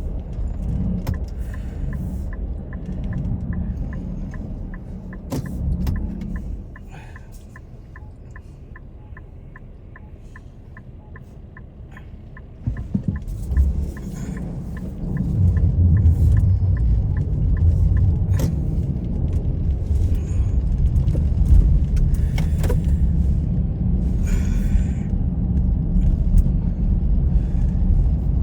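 Car running on the road with a low engine and road rumble that eases for several seconds midway, then grows louder and stays there. A steady ticking, about two or three a second, runs through the first two-thirds and then stops.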